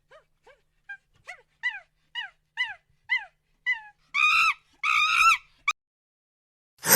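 A small animal's high-pitched cries: a run of short calls, each falling in pitch, about two a second, then two longer, louder calls. A loud, noisy sound cuts in at the very end.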